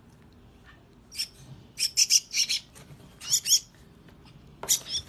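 Crested myna nestling giving shrill begging calls for food, in short calls that come in about four groups. The loudest are a quick cluster about two seconds in and a pair around three and a half seconds.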